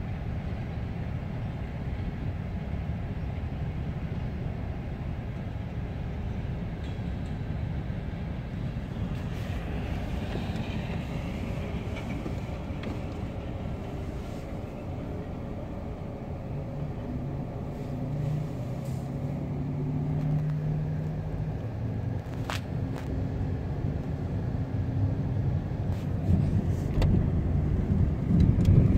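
Low, steady rumble heard from inside a car cabin: a loaded coal train's hopper cars rolling past, mixed with the car's own engine and road noise as it drives off beside the tracks. Some engine hum comes in during the second half, and the noise grows louder toward the end.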